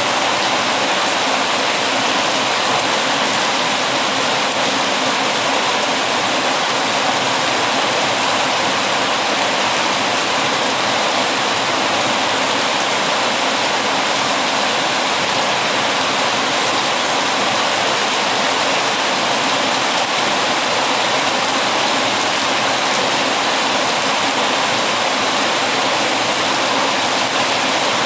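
Heavy rain falling, a dense, even hiss that holds steady without a break.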